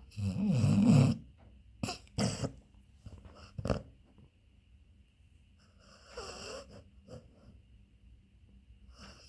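Beagle snoring in its sleep: one loud, low snore in the first second, a few short breath sounds over the next three seconds, and a longer breath about six seconds in.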